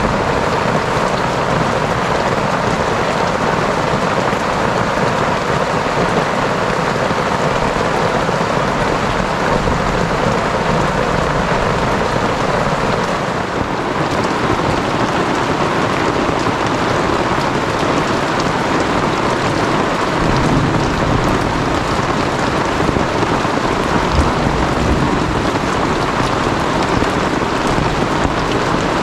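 Heavy rain falling on a tent in a storm, with wind, steady and loud throughout.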